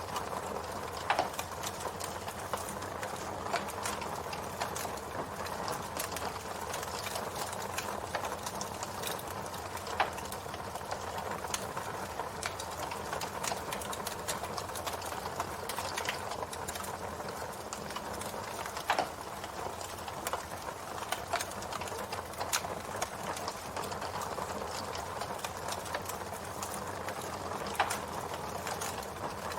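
Campfire burning: a steady hiss and crackle of wood in the flames, with scattered sharp pops and snaps, the loudest about a second in, at ten seconds, and near the end.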